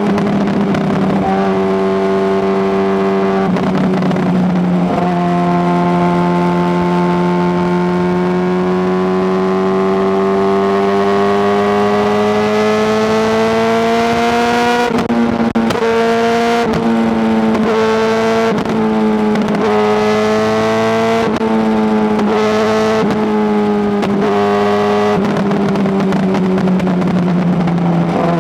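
Honda CBR600RR's inline-four engine running under way with a loud exhaust note: its pitch holds steady, then climbs slowly for several seconds, and from the middle on changes in quick steps about every second and a half before falling away near the end.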